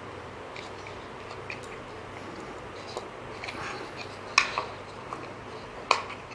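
Small clicks, taps and rustles of hands working a short length of doubled wire through a plastic bottle cap, with two sharper clicks about four and a half and six seconds in.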